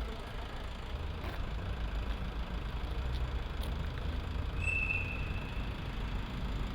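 Diesel freight locomotive engine running with a steady low rumble while shunting wagons. A brief high-pitched squeal sounds about four and a half seconds in.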